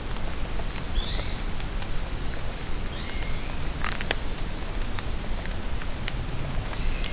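Steady rain falling in a forest, with a few sharp drip clicks. Several short, high songbird calls and chirps come over the rain: around a second in, through the middle, and again near the end.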